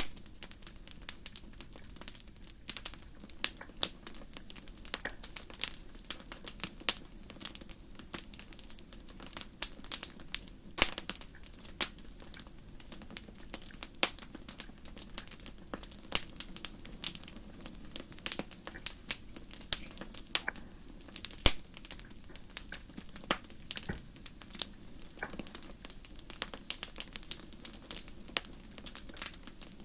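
Fire crackling, with irregular sharp pops and snaps, several a second, over a low steady background.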